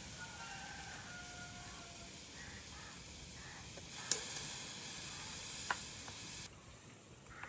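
Food sizzling over a cooking fire, a steady high hiss with a couple of sharp clicks. The sizzle cuts off suddenly about six and a half seconds in.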